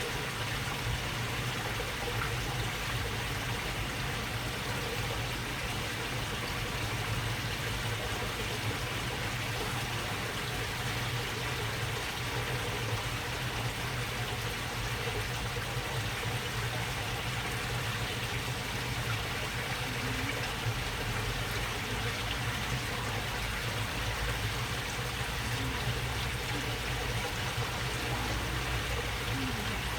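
Shallow water in a narrow waterway babbling and trickling steadily, with a low steady hum underneath.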